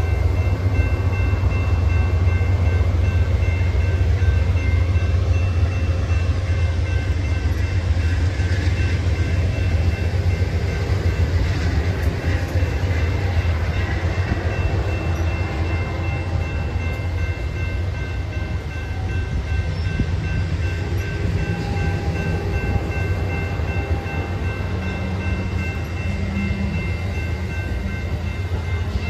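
A train running on the rails: a steady, loud, low rumble, with a few faint, steady high-pitched tones ringing over it.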